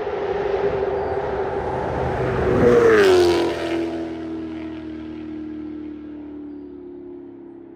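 Chevrolet Camaro ZL1's supercharged V8 with an aftermarket exhaust driving past: the engine note grows louder, drops in pitch as the car goes by about three seconds in, then fades away.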